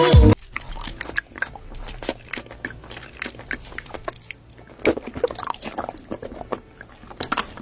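Close-up chewing with many small irregular crunches, like crunchy food being eaten. Music stops abruptly just after the start.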